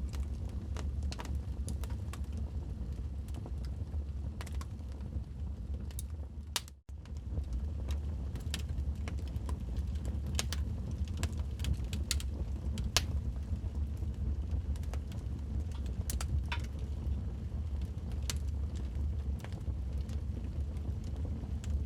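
Wood fire crackling in a fireplace: frequent irregular sharp pops and snaps over a steady low rumble. The sound cuts out for an instant about seven seconds in.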